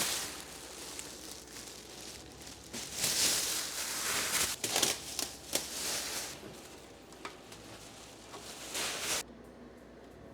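Plastic masking sheet being pulled off and crumpled, a crackling rustle that is loudest in the middle with a few sharp crinkles, then stops suddenly near the end.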